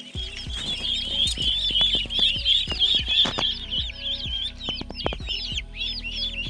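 A group of ducklings peeping constantly, many short high downward-sliding peeps overlapping several times a second.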